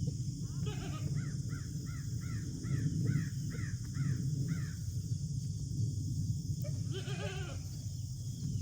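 A bird calls in a quick run of about nine short, repeated notes. Near the end a goat gives a single bleat. A steady low rumble runs underneath.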